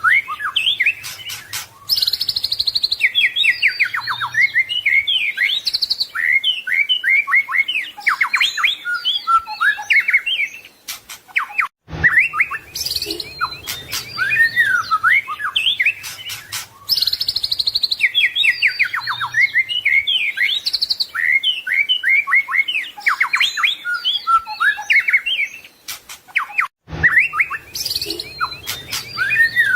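White-rumped shama (murai batu) singing a fast, varied song of rising and falling whistles, trills and chattering phrases. The same stretch of song repeats about every 15 seconds, broken twice by a short silent gap.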